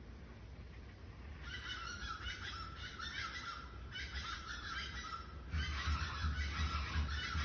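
Many birds calling at once, a dense, high-pitched chorus that starts about a second and a half in and goes on in long stretches with short breaks, over a low rumble.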